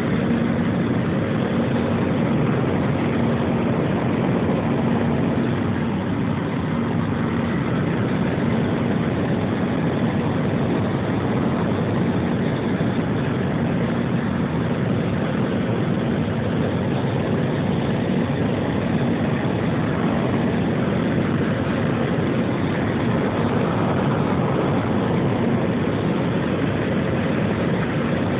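Jet airliner engines during takeoff, heard inside the passenger cabin: a steady rush of noise with a low hum running through it, growing a little louder right at the start and then holding even.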